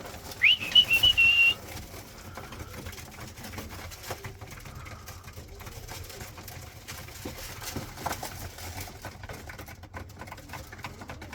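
A single short human whistle that rises and then warbles on one high note for about a second, a fancier's call to young pigeons to come down and feed. After it, only faint scattered clicks and shuffling.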